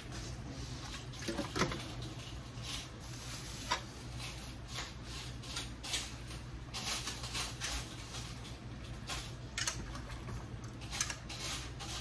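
Chicken pieces with peppers and onions frying in a pan, sizzling with irregular crackles and pops, over a steady low hum.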